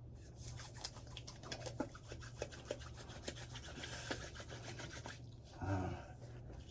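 Hands rubbing beard oil into a beard: a quick, scratchy rustle of palms and fingers working through the hair, which stops about five seconds in. A brief low sound follows near the end.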